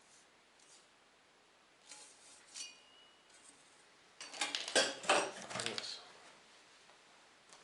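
Small metal parts of a diesel heater kit clinking and rattling as they are handled, a few light clicks first and then a burst of clattering about four seconds in.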